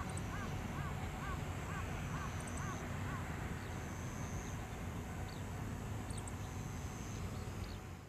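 Birds calling outdoors: one bird gives a quick run of about eight short rising-and-falling calls over the first three seconds, while smaller birds make faint high chirps now and then. A steady low rumble runs underneath.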